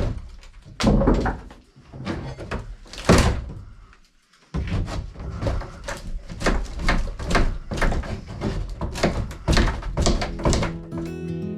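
Knocks and thumps on wood as part of the staircase is worked loose: a few separate heavy blows, a brief pause, then a quick run of blows about three a second from about halfway through. Guitar music comes in near the end.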